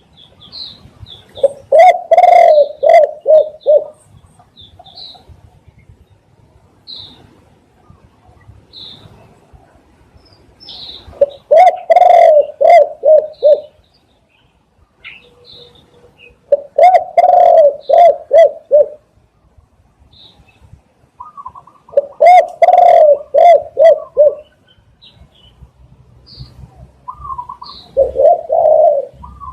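Spotted dove cooing: five phrases of several quick, low coo notes, each about two seconds long, repeating every five to six seconds. Faint high chirps come between the phrases.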